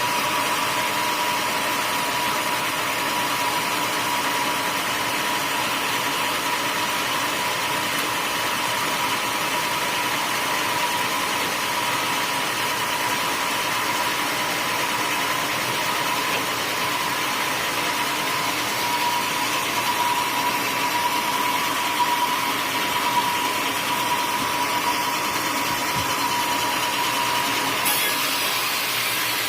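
Sawmill running steadily, its motor and blade giving a continuous mechanical noise with a thin steady whine that fades out near the end.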